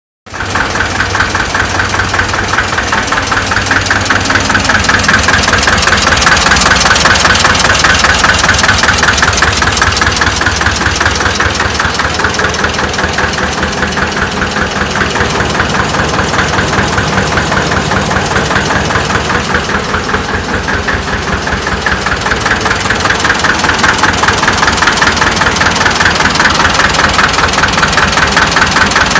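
Deutz diesel engine of a Renault 3042 tractor, newly brought back to running, idling steadily with even firing, running like clockwork. It picks up slightly a few seconds in, settles back, and rises a little again near the end.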